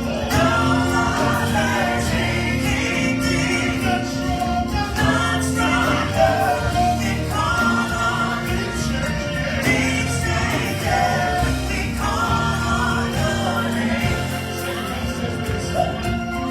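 Gospel choir singing a worship song with a live band, bass and drums under the voices.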